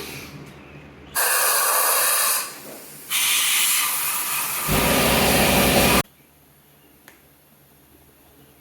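Two long hissing blasts from a pressurized nozzle, the second longer and picking up a low rumble near its end before cutting off sharply about six seconds in.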